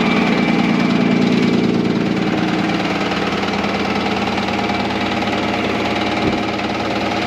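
Vehicle engine idling steadily, a little louder for the first two seconds, with a short low thump about six seconds in.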